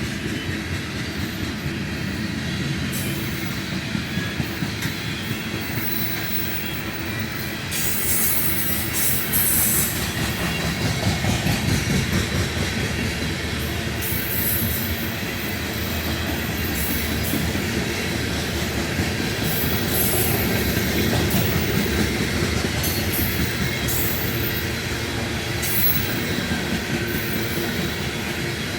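Loaded CSX unit grain train of covered hopper cars rolling past, its steel wheels giving a steady rumble and clatter on the rails.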